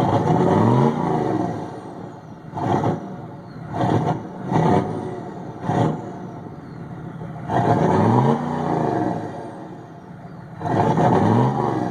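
Chevrolet 6.5-litre turbo diesel V8, cold, revved up and let fall back to idle: three longer revs and four quick throttle blips between them. A faint turbo whistle falls away after the revs.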